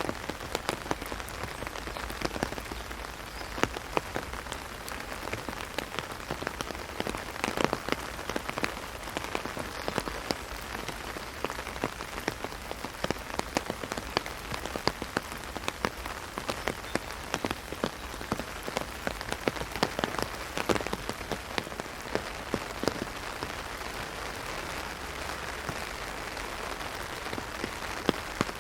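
Heavy rain hitting an umbrella: a steady hiss of rain with many sharp, separate drop hits on the canopy.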